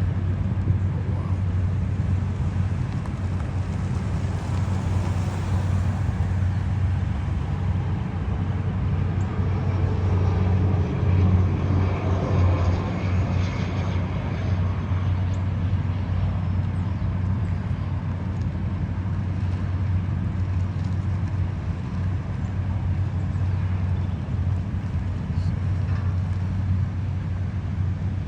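Steady low vehicle rumble with a constant hum, swelling slightly about twelve seconds in as something passes.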